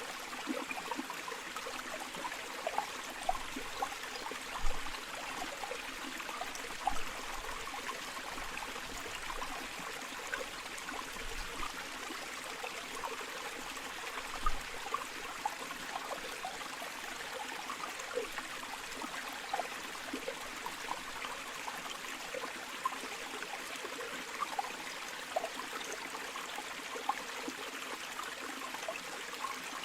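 River water flowing over stones, a steady rush with many small gurgles and splashes scattered through it.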